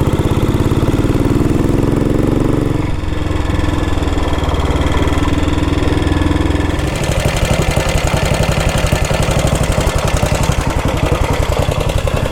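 1962 Matchless G80CS's 500 cc single-cylinder four-stroke engine running, its firing beat steady, with the engine note changing about three seconds in and again about seven seconds in.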